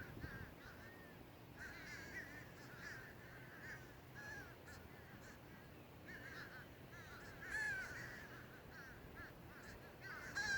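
A flock of birds calling: many short, overlapping calls chattering steadily, with a louder burst a little past halfway and another near the end.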